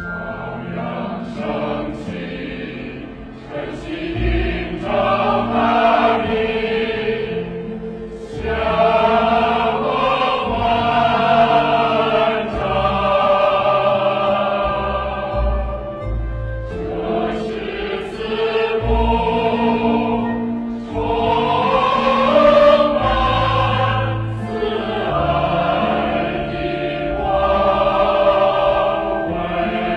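Choir singing in long, sustained phrases.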